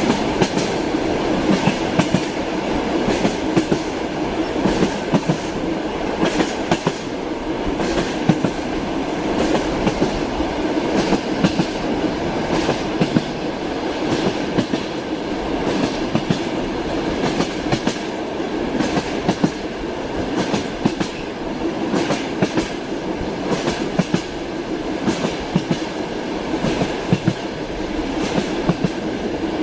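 Passenger train rolling along, heard from inside the carriage: a steady rumble with the repeated clickety-clack of wheels passing over rail joints.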